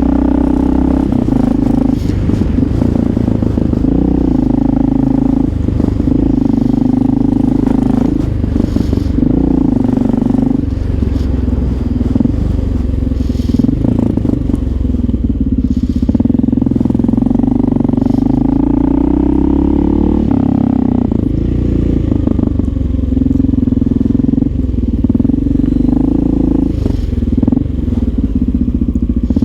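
Honda XR650L's single-cylinder four-stroke engine running under way, with a deep rumble whose pitch rises and falls gently as the throttle changes, and a few brief clicks.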